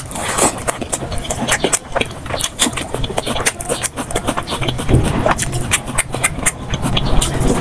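Mukbang eating sounds played at double speed: rapid, crowded chewing, lip smacks and wet clicks of someone eating curry with rice. A low hum joins about five seconds in.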